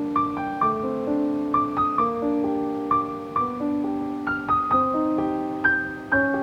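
Soft background piano music: a slow, gentle melody of single notes over held chords.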